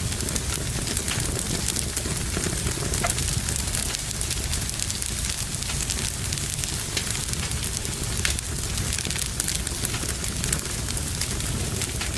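Wood fire burning in a fireplace, with a steady low rumble of the flames and frequent small, sharp crackles and pops from the burning logs.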